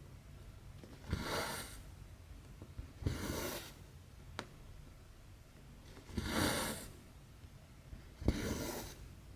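Needle and thread going through 11-count cross-stitch fabric: four stitches, each a sharp click as the needle pierces the cloth followed by a short rasp as the floss is drawn through, about every two seconds, with one extra lone click in between.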